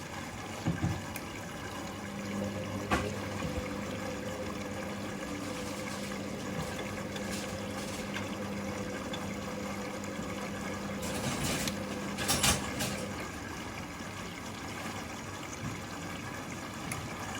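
Hoover Link front-loading washing machine filling with water for its final rinse: a steady rush of water into the drum with a low hum under it, a knock about three seconds in and a short cluster of clunks and splashes near the two-thirds mark.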